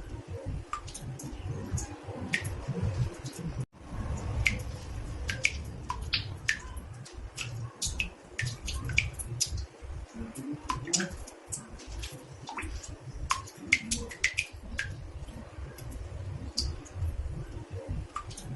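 Water drops falling irregularly into a bathtub, about two a second, each a short bright plink with a little pitched ring. A low rumble runs underneath, and the sound cuts out briefly near four seconds in.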